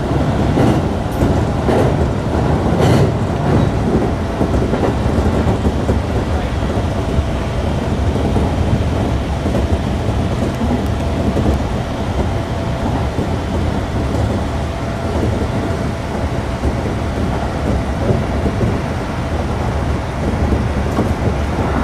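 Freight train passing close by, a loud, steady rumble of wheels on rail that goes on without a break.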